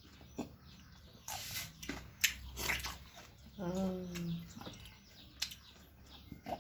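Eating noises: mouth smacks and clicks with a couple of brief slurps, as someone eats millet dhido and chicken soup. About halfway through, a short hummed vocal sound.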